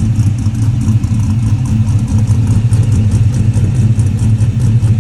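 Cammed 5.3-litre V8 in a 1999 GMC Sierra idling steadily, heard through a 2.5-inch true-dual exhaust with long-tube headers, high-flow cats and Dynomax Ultra Flo mufflers. It has a low, even exhaust note.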